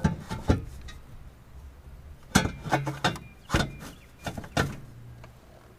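A string of sharp metallic knocks and clanks, one near the start and a quick run of about six between two and five seconds in: a steel exhaust pipe banging against the truck's frame and underbody as it is worked into place.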